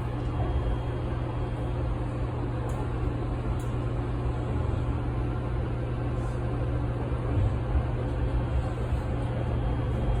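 Inside a Sanyo Electric Railway 5030 series electric train: a steady low rumble and hum of the car, unchanging throughout.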